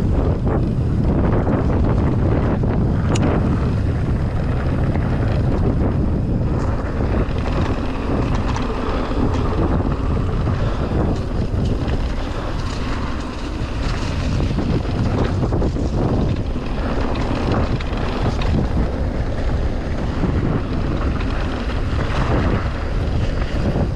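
Wind buffeting the microphone of a mountain bike rider's camera while riding downhill, over tyres rolling on a dirt trail, with scattered knocks and rattles from the bike.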